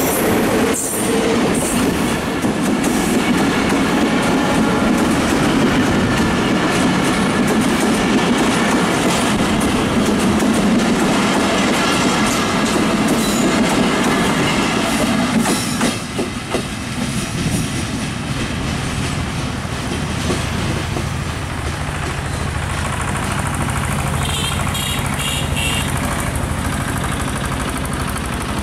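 A diesel locomotive and its passenger coaches running past close by, with the wheels clicking over the rail joints. The sound drops at about the middle as the train moves on, then goes on lower and steadier.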